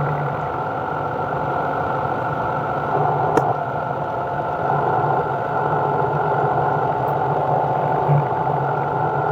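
A workshop machine's motor running steadily, with a single sharp click about three and a half seconds in.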